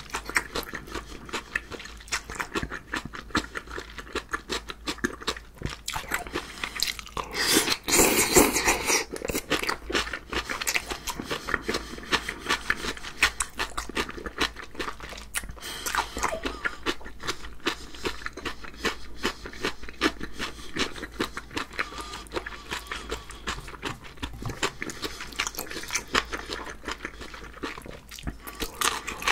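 Close-miked chewing of spicy mixed sea squirt and cucumber: wet crunching and many small mouth clicks, with a louder, noisier stretch about eight seconds in.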